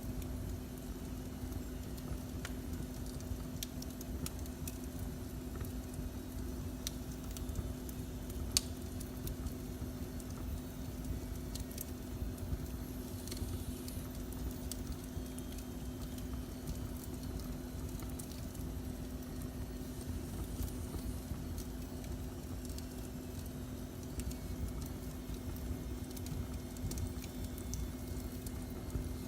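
Wood fire burning in a fireplace: a steady low rumble with scattered crackles and pops, one louder pop about eight seconds in, over a constant low hum.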